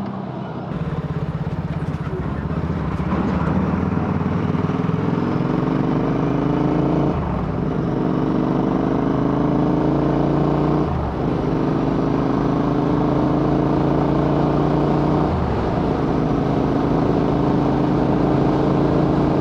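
Royal Enfield Interceptor 650 parallel-twin with AEW aftermarket exhausts, accelerating under way. The engine note rises steadily and drops sharply three times as the rider shifts up through the gears, about 7, 11 and 15 seconds in.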